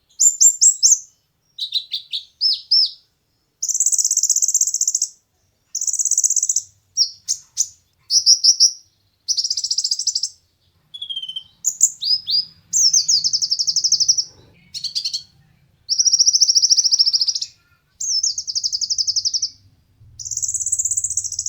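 Konin (kolibri ninja) sunbird singing: a string of high, rapid trilled phrases, each up to a couple of seconds long, separated by short pauses.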